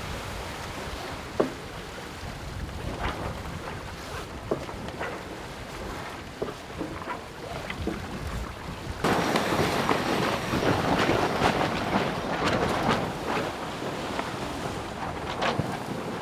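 Wind and water noise on the deck of a racing sailboat, with scattered clicks and knocks. About nine seconds in, a louder rushing of wind and water sets in and lasts for several seconds.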